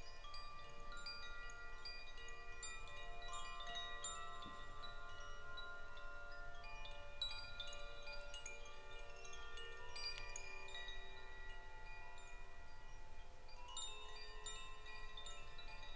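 Wind chimes ringing continuously: many overlapping tones struck at irregular moments, each ringing on for a few seconds.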